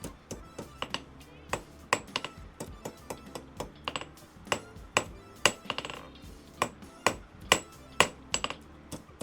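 Hammer tapping a small hot steel round bar on an anvil to curl a scroll: a run of light, uneven blows, about two a second, some with a metallic ring.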